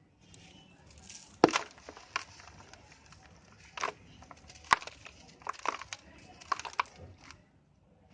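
Dry brown dirt shapes crumbling, a string of sharp crunches and cracks spaced irregularly, the loudest about one and a half seconds in.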